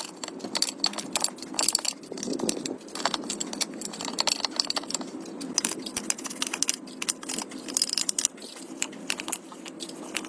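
Small metal pieces clinking and rattling, a rapid irregular run of sharp clicks with brief metallic ringing.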